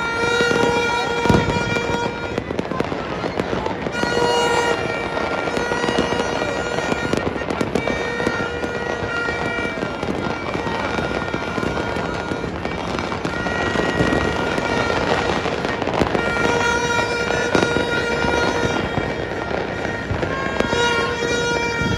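New Year fireworks and firecrackers going off across a city: a dense, continuous crackle with scattered sharp bangs. A steady pitched tone is held over it at the start and again through the last few seconds.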